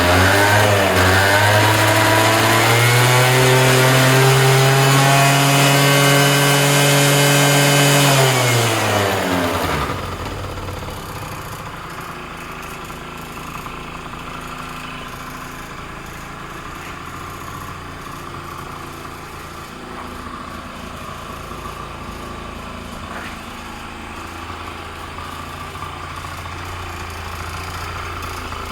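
Honda Dio AF27 scooter's 50 cc two-stroke single-cylinder engine revved up, held at high revs for several seconds, then dropping back about ten seconds in to a steady idle.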